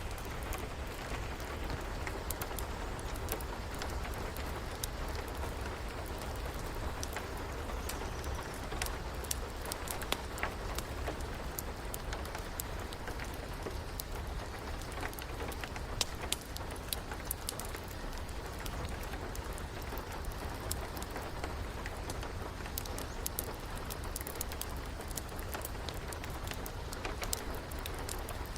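Steady rain, mixed with many small sharp pops and crackles from a wood fire.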